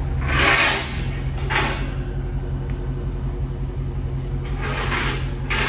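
Dodge Charger Daytona's 392 HEMI V8 running on its stock exhaust, a steady low drone that is quiet, almost at a whisper. A few short rushes of noise break over it.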